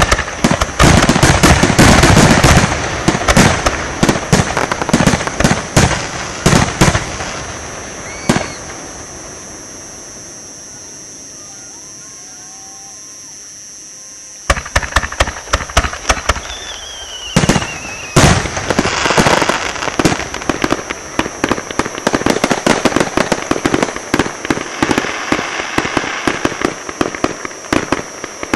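Aerial fireworks going off in rapid strings of crackling bangs and pops. The barrage breaks off about a quarter of the way in, leaving a lull with a single bang, then resumes suddenly about halfway and continues densely.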